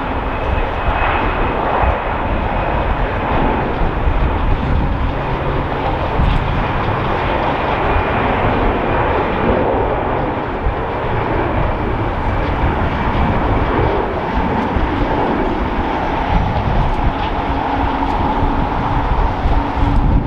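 Airbus A320 jet engines at takeoff power: a loud, steady jet noise with a thin whining tone running through it.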